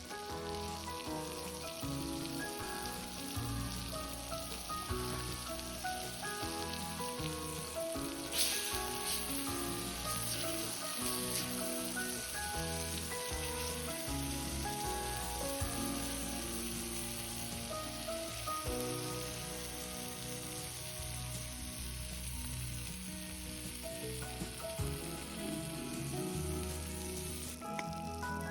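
Food sizzling as it fries. The sizzle gets louder about eight seconds in and drops away near the end, under background music with a melody.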